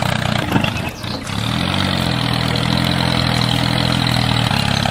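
Engine idling steadily. It drops briefly about a second in, its pitch wavers up and down, and then it settles back to a steady idle.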